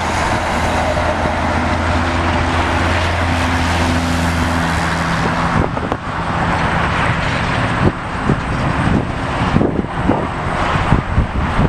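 Loud, steady traffic and engine noise, with a vehicle's low engine hum for about the first five seconds that then fades away. In the last few seconds, wind buffets the microphone in gusts.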